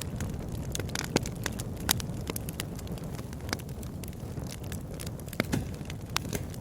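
Wood bonfire burning: a steady low rumble of flames with irregular sharp crackles and pops, the loudest pops a little after a second in and near two seconds.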